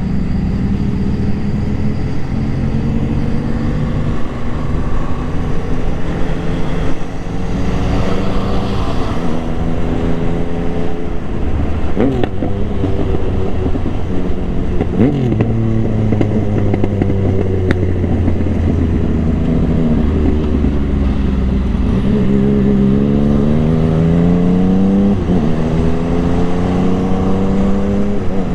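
Motorcycle engine under way, its pitch climbing as it accelerates and dropping sharply at each gear change, four shifts in all.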